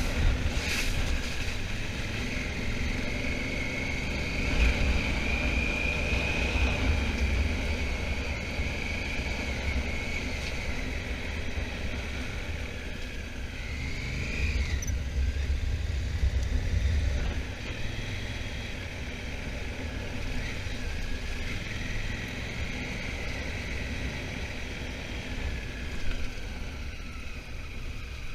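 Honda Africa Twin's parallel-twin engine running under way, with heavy wind rumble on the microphone and a wavering high whine. The rumble eases a little about two-thirds of the way through.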